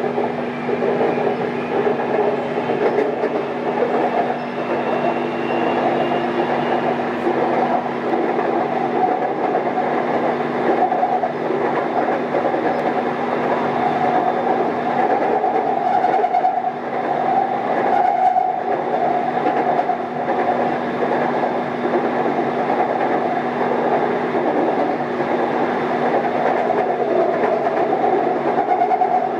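BTS Skytrain electric train running, heard from inside the passenger car: a steady rumble of wheels on rail with a constant hum and faint motor whine.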